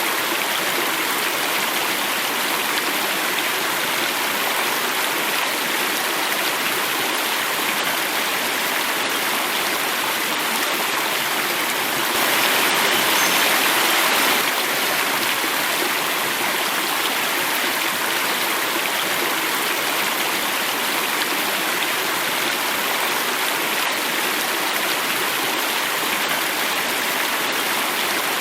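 Running water rushing and splashing steadily down a small cascade in a stream. It swells a little louder for a couple of seconds about halfway through.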